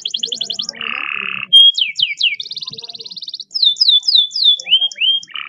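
Domestic canary singing a fast, varied song of long rolls: a rapid trill of repeated notes, a lower buzzy roll about a second in, then quick downward-sweeping whistles and another buzzy roll near the end.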